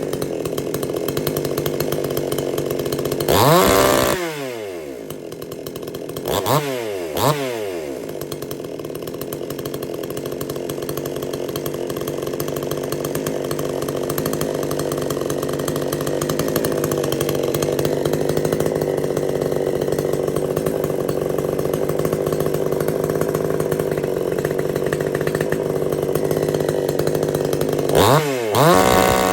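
Supmix 54cc clone two-stroke chainsaw idling steadily, revved up and back down four times: once about three and a half seconds in, twice in quick succession around seven seconds, and once near the end.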